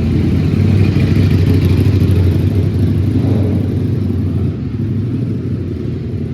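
A car engine running with a steady low rumble. It is louder for the first few seconds and eases off about four and a half seconds in.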